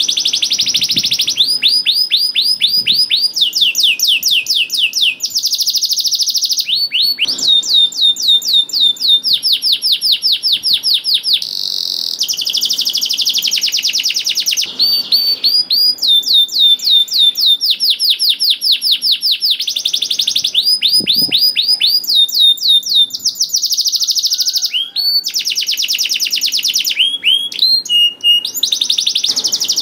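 Domestic canary (male) singing a long continuous song: rapid rolling trills of repeated down-slurred notes, changing to a new trill or a harsh buzzy run every second or two.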